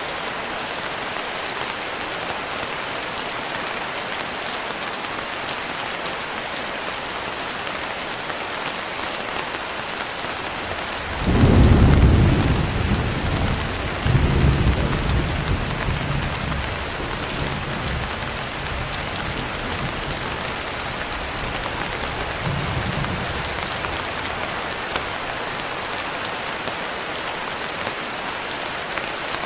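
Steady rain hissing, with a roll of thunder breaking in about a third of the way through: a sudden deep rumble, a second surge a couple of seconds later, then a long fading grumble.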